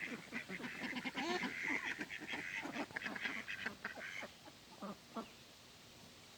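Cayuga ducklings peeping, many quick high calls mixed with a few lower poultry calls, thinning out after about four seconds.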